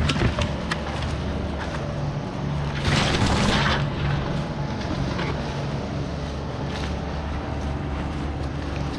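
A large engine running steadily, with a short burst of hissing about three seconds in and a few scattered clicks.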